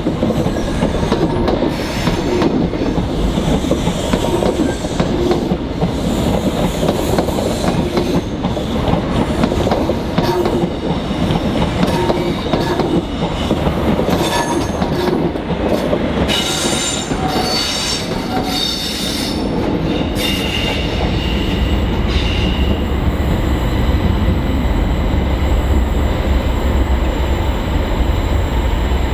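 A train running past on the track, its wheels knocking over rail joints at about one beat a second. High-pitched wheel squeal comes in around the middle, and a heavy low rumble takes over in the second half.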